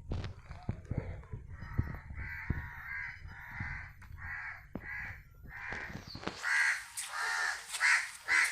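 A crow cawing over and over, about a dozen harsh caws at roughly two a second, getting louder near the end, over low rumbling noise.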